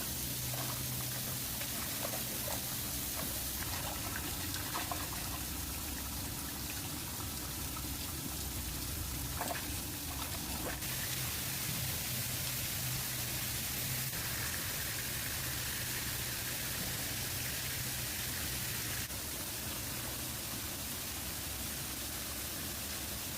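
Running water, a steady rushing hiss, with a few faint knocks around the middle; its texture changes abruptly a few times.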